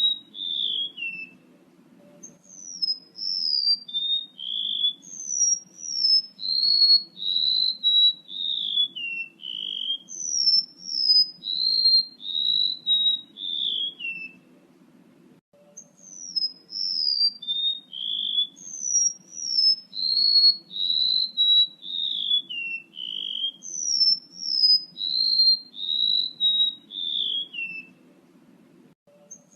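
Golden-bellied gerygone male song, used as a bird lure: a long run of thin, high whistled notes, each sliding downward, that steps down in pitch across the phrase. The phrase plays, pauses briefly about halfway through, then repeats. A faint low hum runs underneath.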